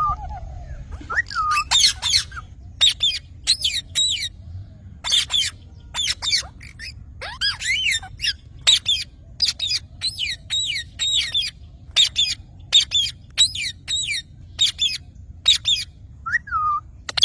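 Green parrot squawking again and again: short, shrill screeches, one or two a second, some in quick pairs.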